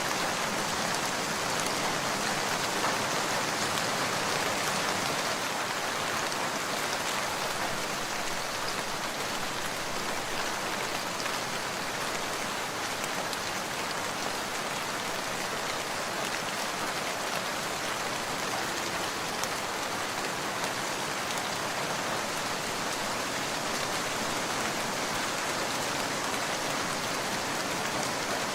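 Steady rain falling: an even, unbroken patter of drops that holds level throughout.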